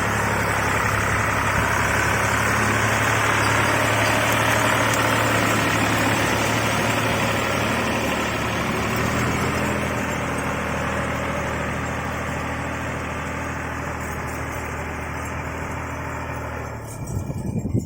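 Tractor engine running steadily. About seventeen seconds in the sound changes abruptly and a few bumps are heard.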